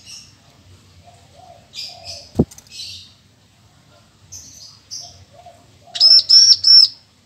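Bar-winged prinia (ciblek) singing: short clusters of sharp, high chirps, then three loud, ringing, arched notes near the end. A single sharp click sounds about two and a half seconds in.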